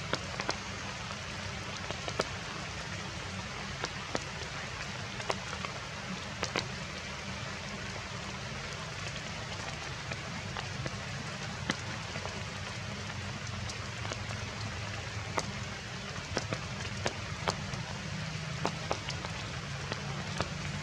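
Heavy rain falling steadily, with scattered sharp drops ticking on top of it.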